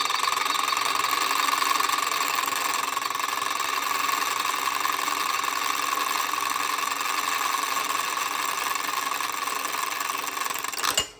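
Drill press motor running steadily while a bit drills through steel, then stopping suddenly near the end with a sharp click.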